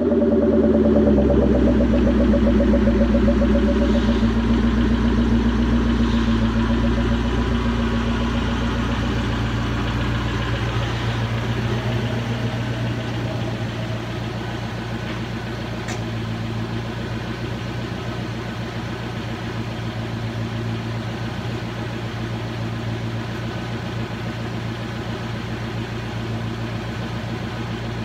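Ford SVT Cobra V8 through a Borla ATAK exhaust with a catted X-pipe, idling just after a light rev. It gradually gets quieter over the first dozen seconds, then settles into a steady idle.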